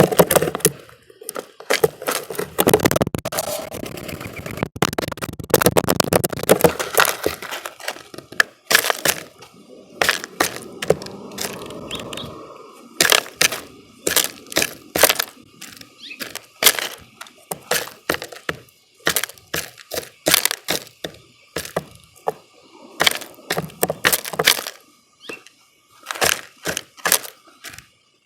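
Birds feeding at a bird feeder: a rapid, irregular run of sharp taps and cracks from beaks pecking at seed and knocking on the feeder. The taps are densest in the first third and then thin out to scattered pecks.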